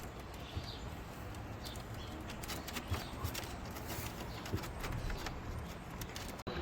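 Quail pecking at a dish of fermented feed, a quick irregular run of small taps, with a few faint chirps from the birds.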